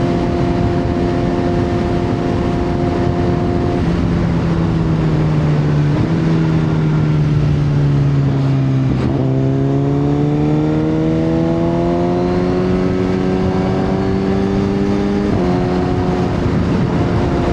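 Motorcycle engine running under way with wind rush. Its pitch steps down twice in the first few seconds, sags as it slows, jumps up sharply about halfway through as it shifts down, then climbs steadily under acceleration before stepping down again at a gear change near the end.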